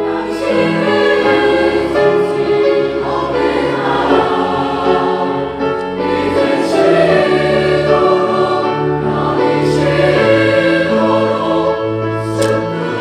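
Choir singing a sacred choral anthem in sustained, full chords, with a bass line moving under it.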